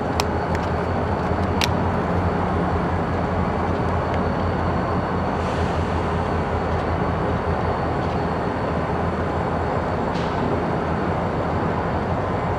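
Diesel locomotive running at a steady low drone during yard switching, with a few short sharp clicks in the first couple of seconds.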